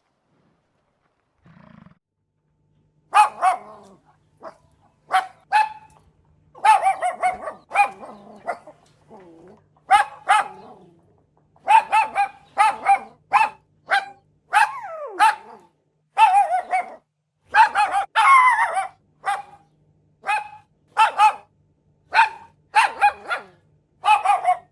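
A dog barking repeatedly in quick runs of short, sharp barks, starting about three seconds in, with one longer falling yelp about halfway through.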